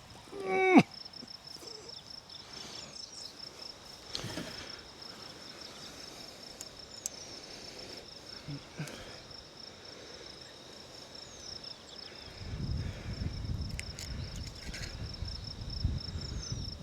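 An insect trilling steadily in rapid, even pulses at a high pitch. A short vocal sound comes right at the start, and a low rumbling noise joins over the last few seconds.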